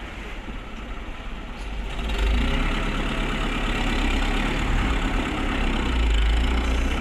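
Truck engine running steadily, growing louder about two seconds in as it picks up revs or a truck draws closer.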